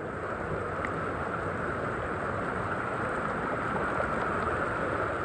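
Steady rushing noise of water from a flood-time rainstorm, holding even throughout.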